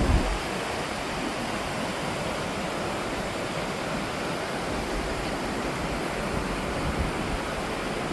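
Steady rushing of the Big Sioux River's waterfalls, an even wash of falling water.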